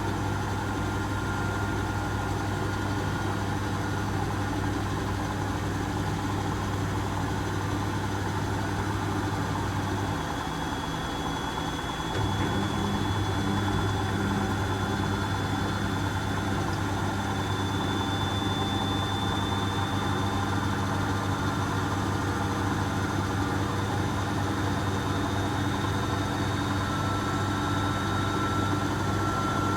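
Asko Quattro W6098X washing machine in its final spin, limited to 1600 rpm: a steady low motor-and-drum hum with a faint high whine. The hum drops away briefly about ten seconds in, then picks up again slightly louder.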